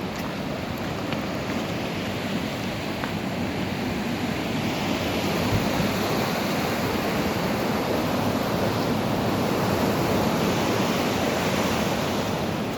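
Swollen stream in flood after heavy rain: a steady rush of fast-flowing water, growing a little louder about five seconds in.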